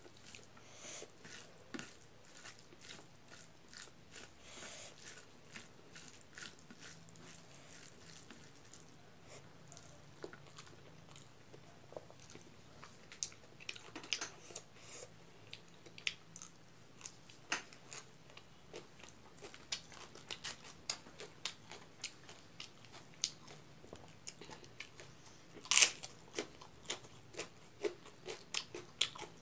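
Close-up chewing and crunching of food eaten by hand, with many small wet clicks and smacks and one louder crunch near the end.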